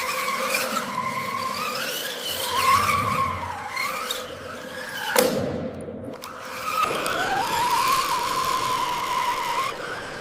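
Electric motors and gears of a radio-controlled construction model whining, the pitch rising and falling as the throttle changes, with a sharp click about five seconds in.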